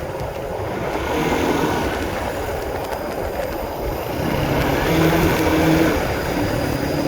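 Honda CB150R's single-cylinder engine running while the motorcycle is ridden, mixed with wind and road noise; the engine note comes through more clearly about five seconds in.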